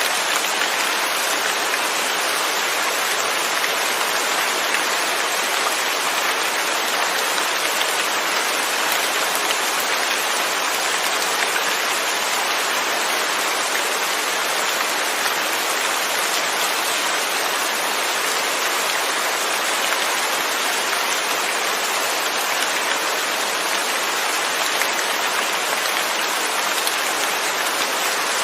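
Steady rain falling, an even hiss with no thunder and no change in level.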